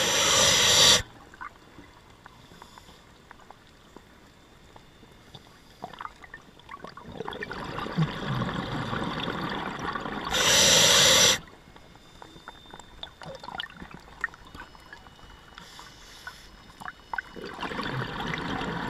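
Scuba diver breathing through a regulator underwater: two loud rushing bursts of about a second each, about ten seconds apart, with bubbling between and faint scattered clicks.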